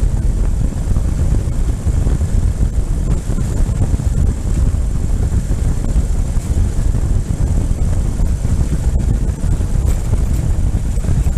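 Ural motorcycle's flat-twin engine running steadily under way, its low rumble mixed with wind buffeting the microphone.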